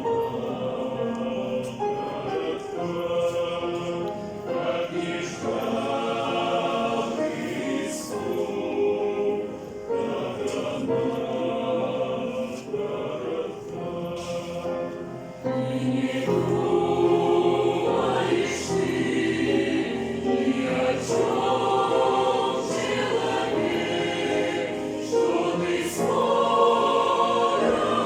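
A choir singing a Christian song, growing louder about halfway through.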